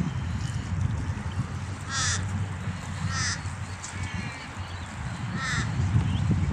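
A bird calling three times, short calls a second or so apart, over a steady low rumble.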